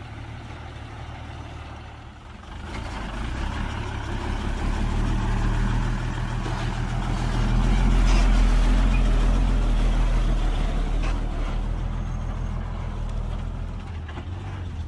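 Heavy construction vehicle's diesel engine running with a deep rumble. It grows louder from about two seconds in, is loudest around the middle, then slowly fades, as if the machine works or passes close by.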